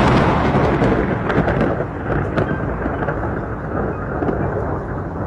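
Thunder rumbling over rain, loudest at the start and slowly fading away.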